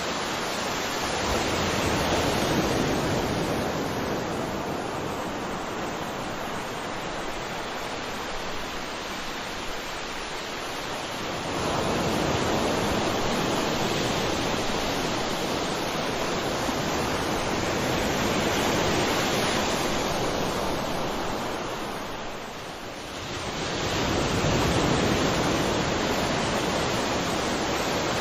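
Sea waves breaking and washing ashore: a continuous rush of surf that swells with each incoming wave, about three times, and ebbs away between them.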